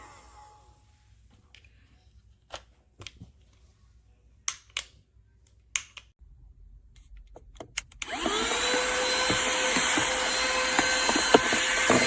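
A few clicks and knocks of the unit being handled, then about eight seconds in the LIPUWS mini cordless handheld car vacuum is switched on. Its small motor spins up in a brief rising whine and then runs at a steady high whine.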